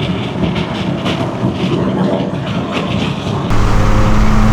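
Straight-piped BMW exhaust. A mixed engine-and-road noise runs until about three and a half seconds in, then changes sharply to a louder, steady low exhaust drone.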